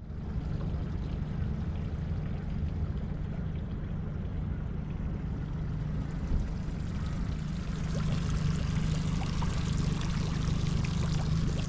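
A boat under way: a steady low motor hum with water rushing and splashing along the hull, the water noise growing a little louder about two-thirds of the way through.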